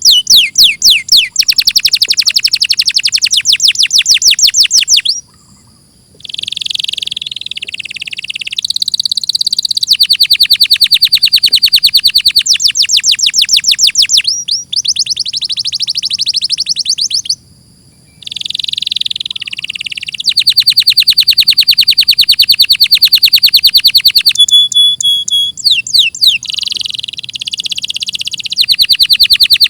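Domestic canary singing: long, rapid trills of repeated high notes in phrases several seconds long, broken by two short pauses.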